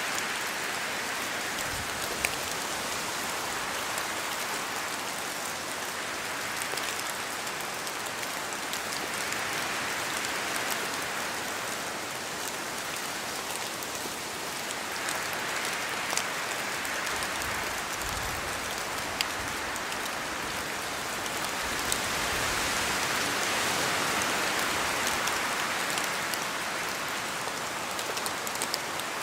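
Steady rain falling in a forest, with drops from the trees landing as scattered sharp ticks. The rain's hiss swells and eases every few seconds.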